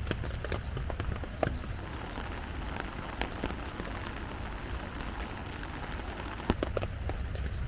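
Steady rain falling, with scattered louder drops tapping now and then.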